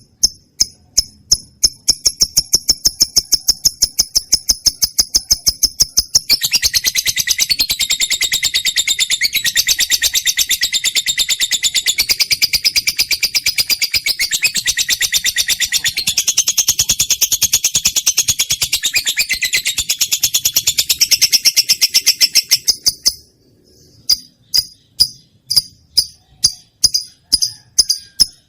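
Lovebird song: rapid high chirps several times a second that run together into a long, continuous shrill trill, then break off briefly and resume as separate repeated chirps near the end.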